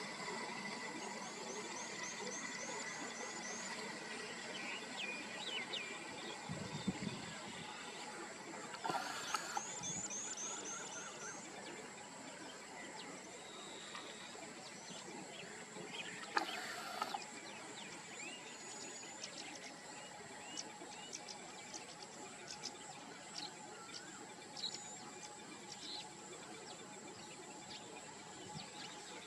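Birds chirping and trilling over a steady drone of insects, with two runs of quick, repeated high chirps. A few brief knocks stand out, the loudest around seven and sixteen seconds in.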